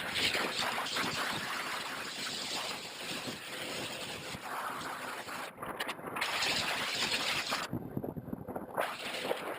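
Wind rushing over the onboard camera's microphone of a HobbyKing Breeze RC plane in flight: a steady noisy rush, with the hiss dropping away briefly a little over halfway through and again for about a second later on.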